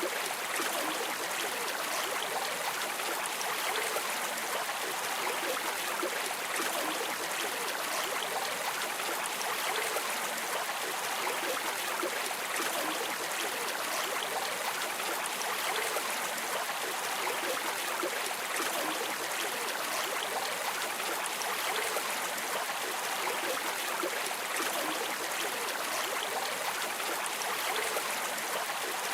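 River water streaming and trickling steadily, a continuous even rush with fine splashing detail.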